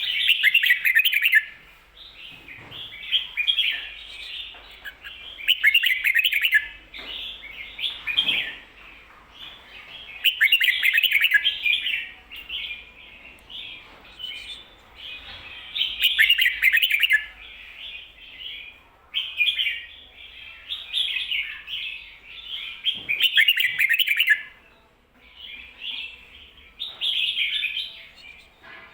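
Red-whiskered bulbul singing its 'kho-ta-ra' doubled song type. A loud phrase of quick, bubbly notes comes again every five seconds or so, with softer warbling between the phrases.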